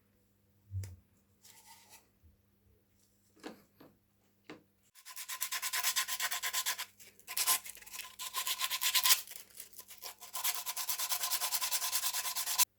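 Hand sanding: fast back-and-forth abrasive strokes, several a second, in three runs with short pauses, cut off abruptly near the end. A few light knocks and clicks come first.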